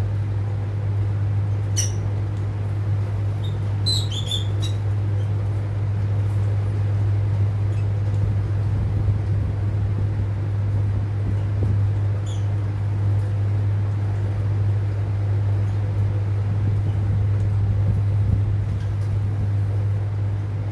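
A few short, high lovebird chirps, a cluster of them early and a single one near the middle, over a loud steady low hum.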